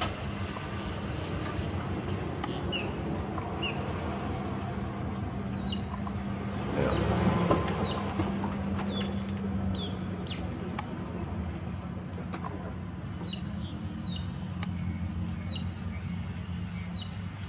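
Birds calling with short, high chirps that drop in pitch, repeated irregularly, over a steady low mechanical hum. The hum grows louder for a second or two about seven seconds in.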